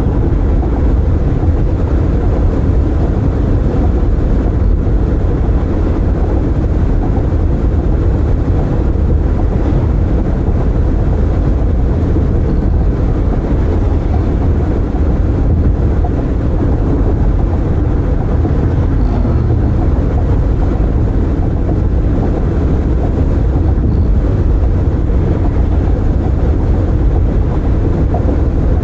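Steady road noise from a car driving with its windows open: a low tyre-and-wind rumble with no distinct events.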